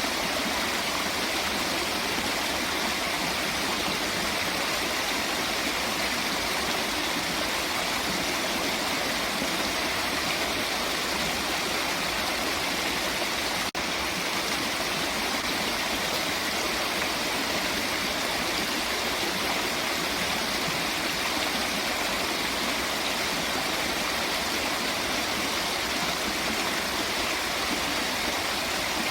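Steady rush of running water, an even unbroken wash of sound, with a very brief dropout about fourteen seconds in.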